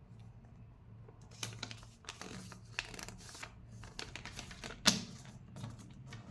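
A sheet of paper being handled, folded and creased by hand: irregular rustling and crackling with sharp taps and clicks, the loudest about five seconds in.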